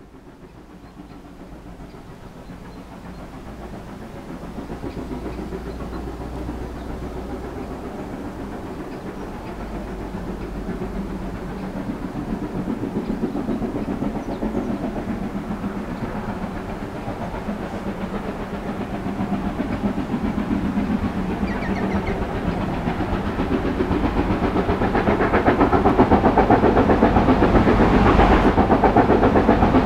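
Steam locomotive approaching under load, its rapid exhaust beats getting steadily louder as it nears.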